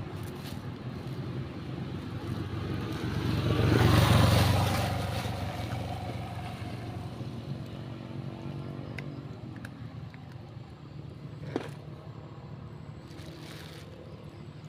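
A road vehicle's engine passing close by, swelling to its loudest about four seconds in and then fading, its pitch dropping slowly. Steady traffic hum runs underneath, with one brief sharp sound a few seconds before the end.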